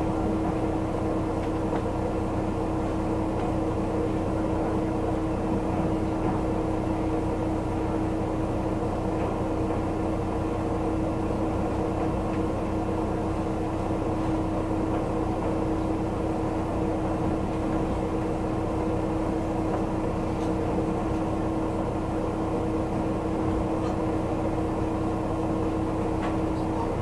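Kyoto Tango Railway diesel railcar running steadily, heard from inside the carriage: an even rumble of wheels and engine with a constant low hum.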